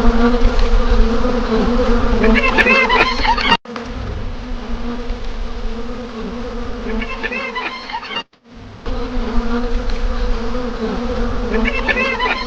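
A swarm of honeybees buzzing steadily around a raided nest. Short bursts of high, wavering calls come in three times, and the sound breaks off briefly twice.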